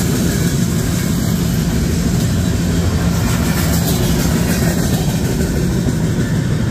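Freight train cars, empty bulkhead flatcars, rolling past a grade crossing with a steady low rumble.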